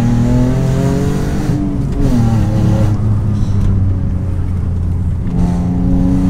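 Alfa Romeo 147 GTA's 3.2-litre Busso V6 heard from inside the cabin while driving. It climbs a little in pitch, drops about two seconds in, holds lower and steady, and rises again near the end.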